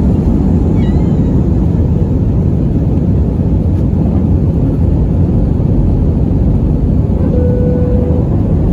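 Airbus A320 cabin noise during the climb: a steady, loud, deep rush of jet engines and airflow heard from inside the cabin, with a brief faint steady tone about seven seconds in.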